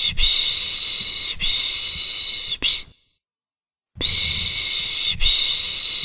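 A person shushing 'şşş' to soothe a baby, the Turkish 'piş piş' sound. Several long shushes run on with brief breaks and end in one short stroke. About three seconds in, there is a second of silence before the same looped phrase starts again.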